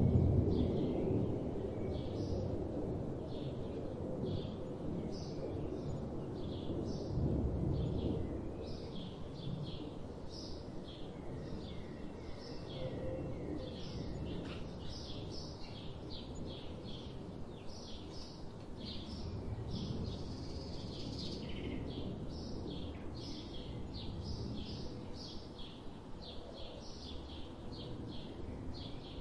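Birds chirping: many short, high calls, several a second, over a steady low rumble of background noise.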